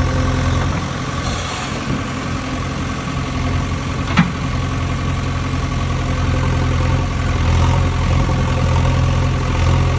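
An engine idling steadily, with one sharp click about four seconds in.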